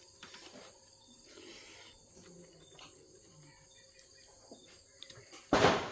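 Quiet eating with small mouth clicks over a faint, steady high-pitched insect-like trill. Near the end there is a short, loud burst of noise.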